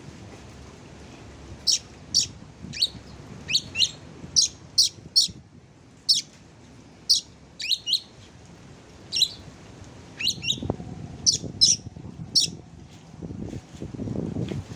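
Songbird giving short, sharp chirping calls in a loose, irregular series, about fifteen clipped notes over some ten seconds, over a low background rumble.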